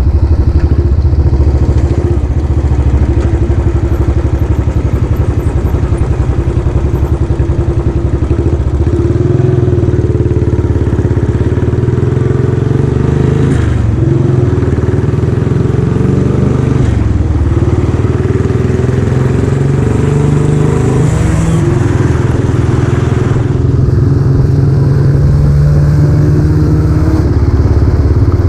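Royal Enfield Classic 500's single-cylinder engine running through a newly fitted silencer as the bike is ridden, its note rising and falling several times with the throttle.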